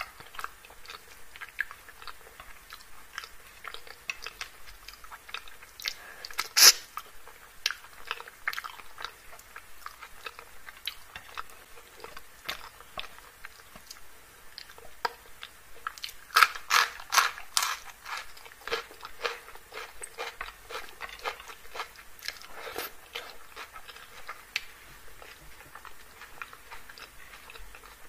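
Close-miked eating of chicken curry by hand: chewing and mouth clicks, with crisp crunches from biting a raw green chili. One sharp click stands out about a quarter of the way in, and a quick run of loud crunches comes a little past the middle.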